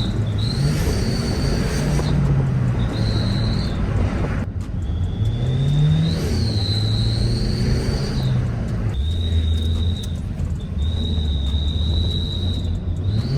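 Car driving with a turbo whistle fitted in the exhaust: a high, thin whistle sounds over the engine and road noise in stretches of one to four seconds, cutting out and returning as the engine revs rise and fall.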